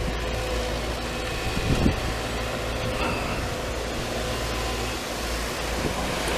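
Crawler excavator's diesel engine running steadily, with a few short knocks, one a little louder about two seconds in.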